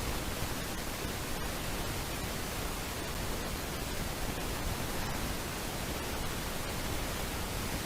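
Steady, even hiss of static-like noise, unchanging throughout, with no distinct calls or events.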